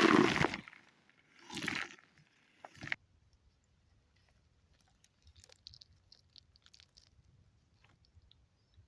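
Crunching, rustling handling noise, as of a plant and its soil being moved around. There are two loud bursts in the first two seconds and a sharp click a little later, then only faint crackling.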